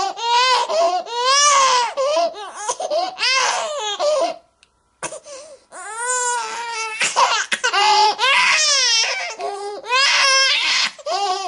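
Baby crying: repeated high-pitched wailing cries that rise and fall in pitch, with a short break in the crying about four and a half seconds in.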